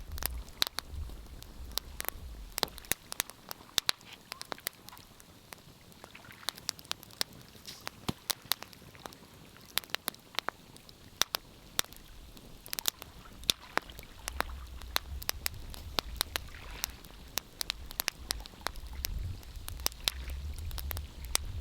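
Fireplace fire crackling: irregular sharp pops and snaps throughout, with a low rumble under them at the start and again in the last few seconds.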